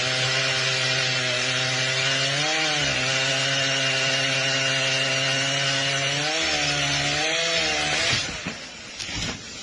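A small engine or motor running at a steady pitch, dipping briefly twice, around two and a half seconds in and again near seven seconds, then stopping about eight seconds in.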